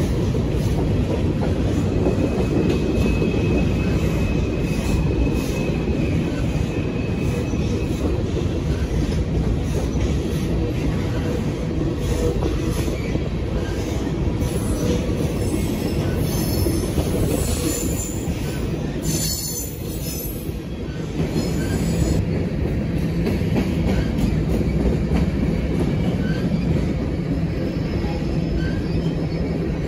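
Freight train of covered hopper cars rolling past, a steady rumble of steel wheels on rail. A faint, thin wheel squeal comes in a couple of seconds in and lasts several seconds.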